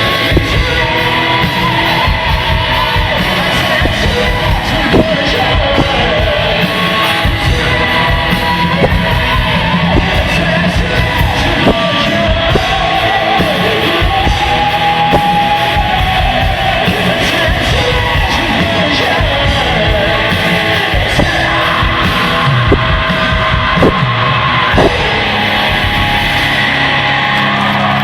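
Live heavy rock band playing loudly, with a singer's yelled vocals over the band and regular drum hits.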